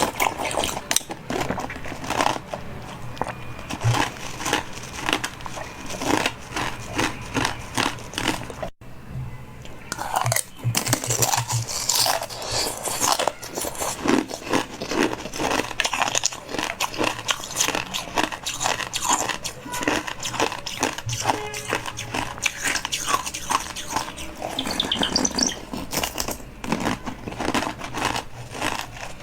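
Eating sounds: food being bitten and crunched in quick, irregular crunches, with background music.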